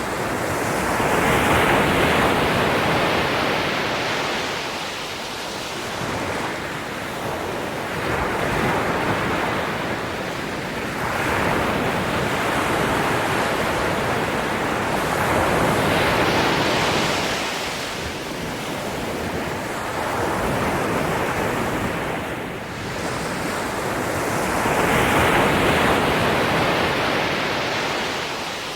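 Ocean surf: waves breaking and washing up the shore, the rush of water swelling and falling back every few seconds.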